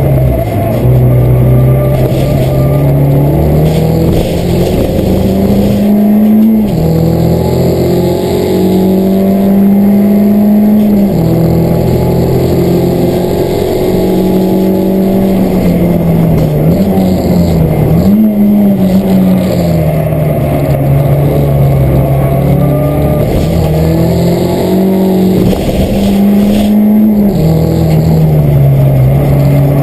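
Peugeot 207 race car engine heard from inside the cabin, running hard on track. Its pitch climbs slowly through each gear and drops sharply at the gear changes, four times.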